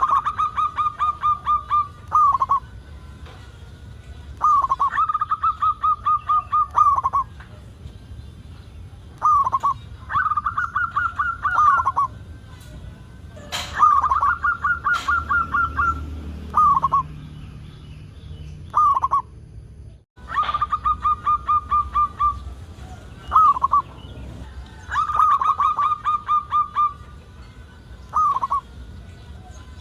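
Zebra dove (perkutut) cooing in repeated bouts of rapid, evenly spaced notes, each bout lasting one to two seconds, with short pauses between. The sound drops out briefly about two-thirds of the way in.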